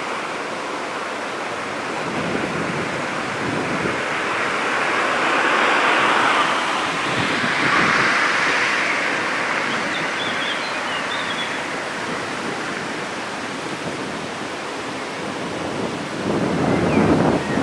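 Wind buffeting the microphone: a loud rushing noise with no clear tones that swells and fades in gusts.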